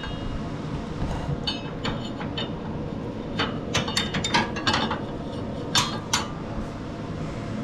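Light metal clinks and taps, a scattered run of them from about one to six seconds in, as a riding mower's belt keeper is worked up into place against the mower's frame.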